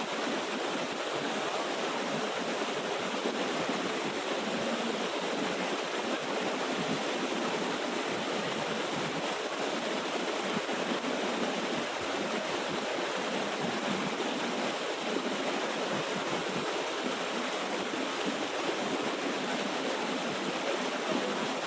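Small waterfall and stream, water running and splashing over rocks in a steady rush.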